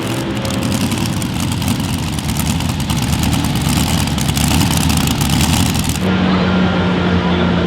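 Pulling vehicle's engine running with rapid, dense firing pulses. About six seconds in, the sound changes abruptly to a steadier engine hum with a constant low tone.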